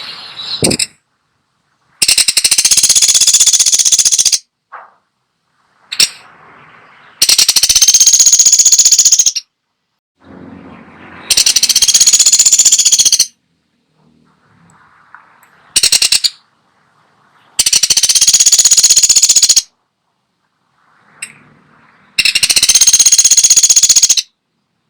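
Pelatuk sampit woodpecker giving loud, rapid rattling calls: five rattles of about two seconds each, roughly every five seconds, with one brief rattle between the third and fourth.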